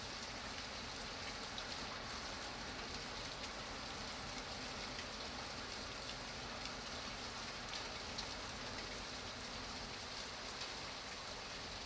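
Steady rain falling on a hard surface: an even, unbroken hiss of many drops, with faint scattered drop ticks.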